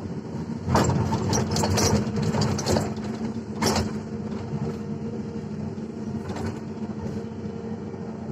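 Excavator's diesel engine running steadily, with a burst of rattling and knocking about a second in and one loud knock about halfway through, from earth and stones dropping out of the bucket into a dump truck's steel bed.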